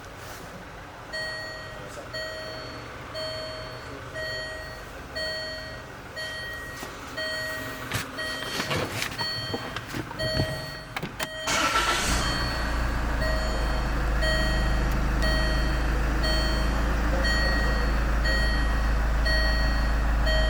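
A Land Rover Freelander's dashboard warning chime beeps about once a second. About halfway through the engine starts and settles into a steady idle, with the chime still going.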